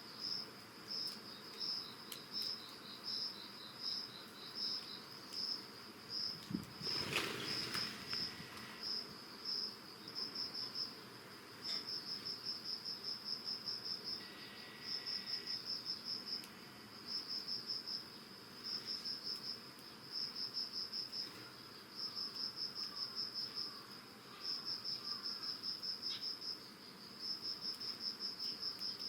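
Early-autumn crickets chirping: high, rapid pulsed trills repeated in runs of a second or two, with a second, lower chirping insect in the first few seconds. A short rustling noise, the loudest sound, comes about seven seconds in.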